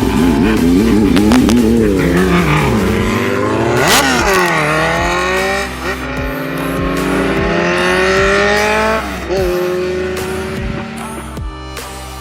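Motorcycle engine revving up and down quickly, then about four seconds in pulling hard in a long climbing note as the bike accelerates, easing off to a steadier note near the end. Electronic music plays underneath.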